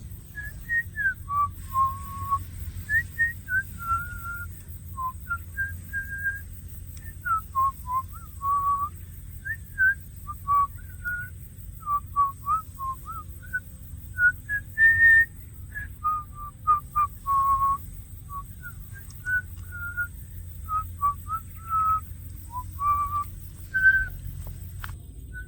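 A whistled melody of short, pure notes, some held and some gliding up or down, in phrases that go on with short gaps, over a steady low background hum.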